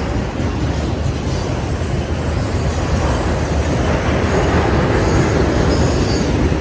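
Norfolk Southern freight train rolling past, a steady rumble of the cars on the rails with faint high wheel squeal.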